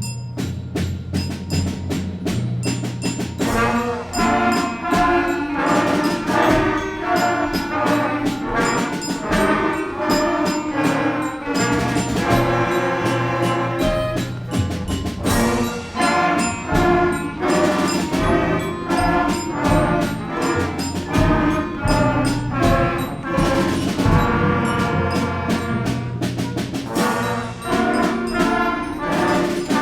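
Concert band playing, with brass, percussion and bell-like strikes; a lighter passage gives way to the full ensemble about three seconds in.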